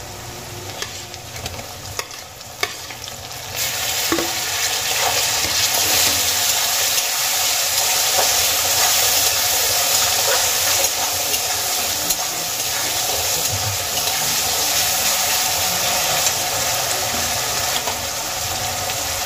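Chopped tomatoes going into hot oil with fried onion and green chillies in a kadai: after a few light spatula clicks, the sizzling jumps loud about three and a half seconds in and keeps up while a metal spatula stirs and scrapes through the pan.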